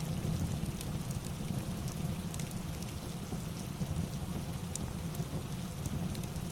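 Steady rain with a low rumble, mixed with a crackling fireplace that gives scattered, irregular sharp pops and ticks.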